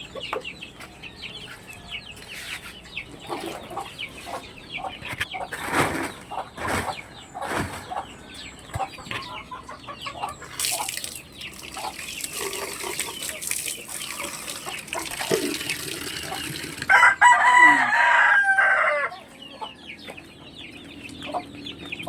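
A flock of chickens at feeding time, clucking with many short high peeps throughout; about 17 seconds in a rooster crows once for about two seconds, the loudest sound.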